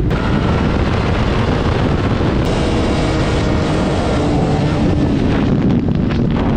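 Honda CBR sport motorcycle running, with heavy wind noise on the microphone.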